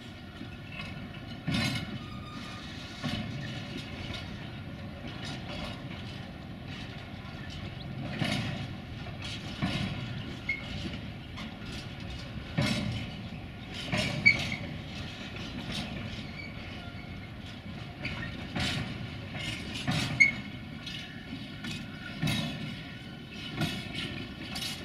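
Freight train of empty flat wagons rolling past, the wheels clacking over rail joints every second or two above a steady rumble, with a few brief high wheel squeaks.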